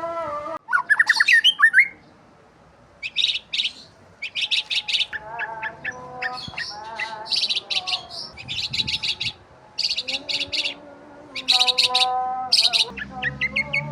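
Several birds chirping: fast runs of high, short chirps in repeated bursts, with lower, steadier whistled calls between them and a short lull about two seconds in.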